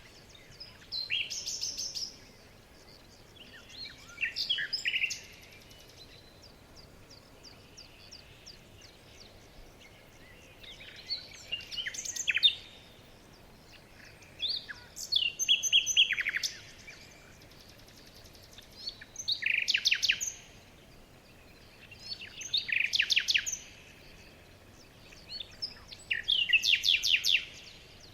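Bird song: short bursts of rapid, high chirping notes, about seven phrases repeated every three to four seconds with quiet gaps between, over a faint steady outdoor hiss.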